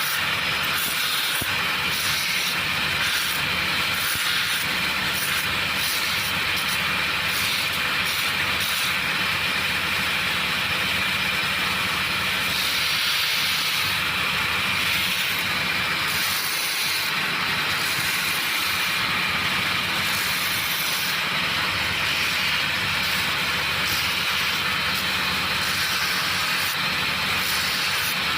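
A motor-driven workshop machine running steadily, giving a constant hiss over a low hum.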